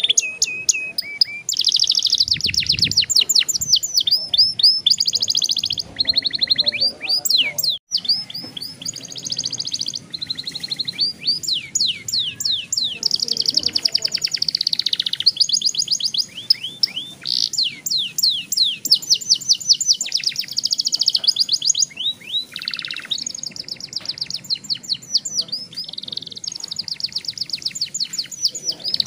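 Young domestic canary singing a long, continuous song of fast trills and rolls, runs of rapidly repeated high sweeping notes that change pitch from phrase to phrase, with only a momentary break about eight seconds in.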